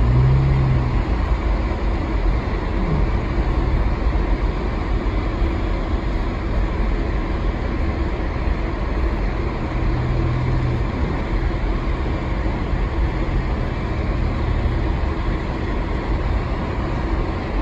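Steady engine and road noise inside a moving car, a low rumble with a faint hum.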